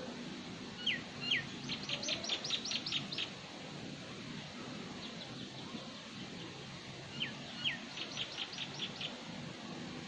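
A songbird calling twice, the same phrase each time: two short downward-sliding whistles followed by a quick run of high, clipped notes.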